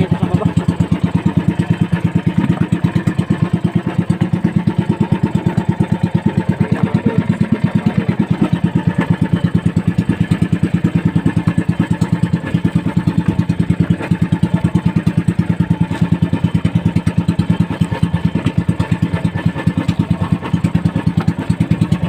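Small motorized outrigger boat (bangka) engine running steadily at sea, an even rapid putter that does not change.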